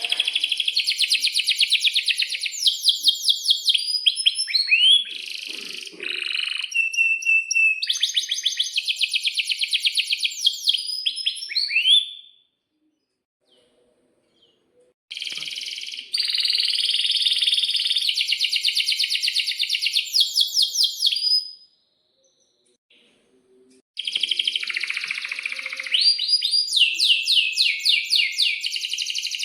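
Domestic canary singing long rolling phrases of fast repeated chirps, trills and swooping high notes, in three long bursts with short pauses between them.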